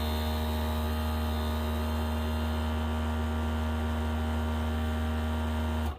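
Countertop vacuum sealer's pump running with a steady low hum as it draws the air out of the bag, then cutting off suddenly near the end when the vacuum is reached and the sealing step begins.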